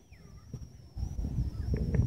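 Small birds chirping in short sweeping notes, over a thin steady high tone. About a second in, a louder low rumbling noise sets in and takes over.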